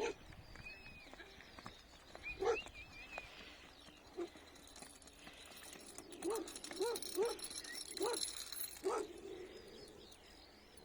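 Outdoor park sounds: high bird chirps and whistles, then a run of five short, low, pitched animal calls between about six and nine seconds in.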